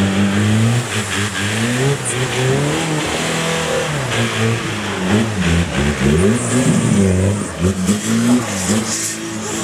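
Off-road competition vehicle's engine revving, its pitch rising and falling again and again as the throttle is worked.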